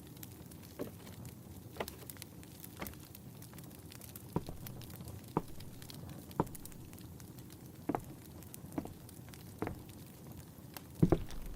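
Wood fire crackling in a fireplace: sharp, irregular pops about once a second over a low steady rumble, with a louder couple of knocks near the end.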